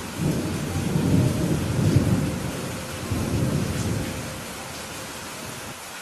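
Steady rain with a roll of thunder: a low rumble swells in just after the start, peaks about two seconds in and fades away over the next few seconds while the rain goes on.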